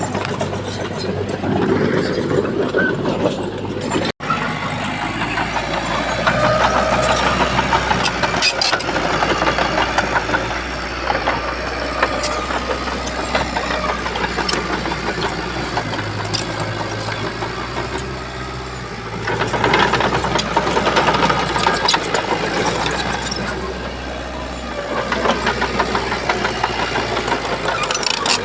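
Heavy diesel engine of a Shantui crawler bulldozer running under working load, swelling and easing, with occasional metallic clanks and rattles. A brief break about four seconds in.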